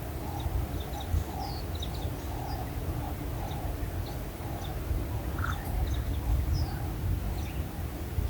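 Wild birds chirping, with many short high chirps scattered throughout and a lower call repeating about twice a second, over a steady low rumble.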